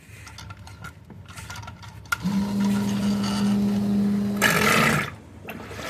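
Sump pump motor kicking on about two seconds in and running with a steady hum, a louder rush just before it shuts off about three seconds later. With its float freed from the pit wall, the pump now cycles on and off as it should instead of running nonstop.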